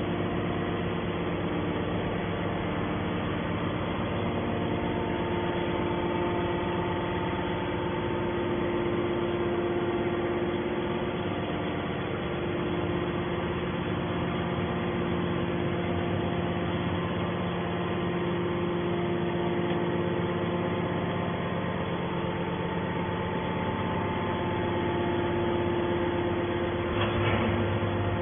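Hydraulic scrap-metal baler running, its power unit giving a steady hum of several tones, with a brief clank near the end.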